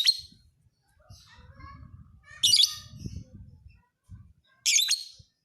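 Lovebird chirping: three loud, shrill bursts of song about two seconds apart, with softer chirps between them and a low rumble underneath.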